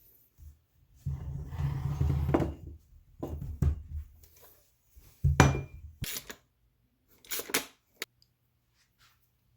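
Tools and bike parts being handled: several short bouts of knocks and scraping, and a single sharp click near the end.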